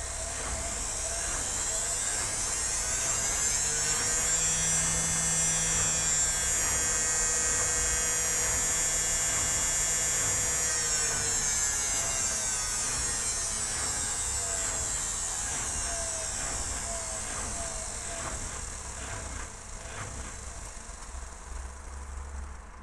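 Indesit WIL82 washing machine on its spin cycle: the motor's whine climbs in pitch as the drum speeds up, holds steady for several seconds, then slides down as the drum slows through the second half.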